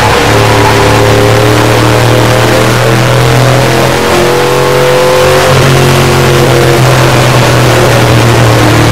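Race truck's V8 engine running hard under load, recorded loud by the onboard camera. Its note eases briefly about four seconds in, then pulls again.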